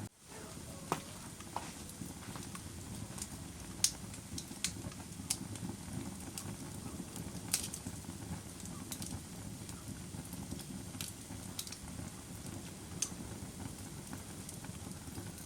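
Campfire burning: a steady low rush of flames with scattered sharp crackles and pops from the burning wood, several seconds apart. The sound drops out for a moment at the very start.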